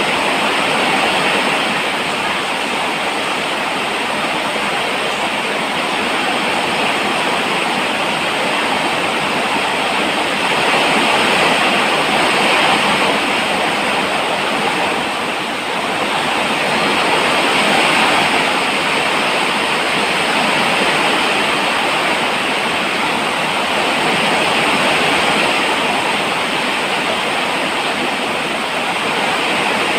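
Steady heavy rainfall, an even hiss that swells and eases slightly every few seconds.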